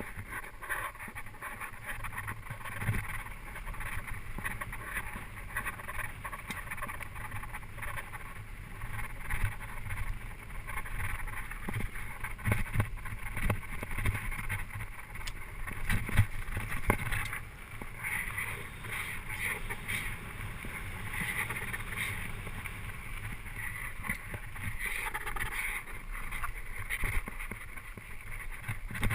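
Bicycle ride noise: a steady rush of wind and tyre noise, with frequent small knocks and rattles from the bike jolting over the surface.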